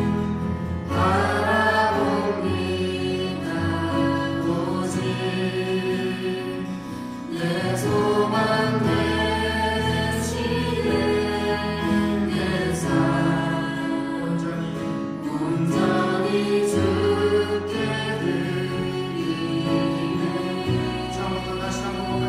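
Praise band and singers performing a worship song, with sustained sung lines over held chords and a steady bass.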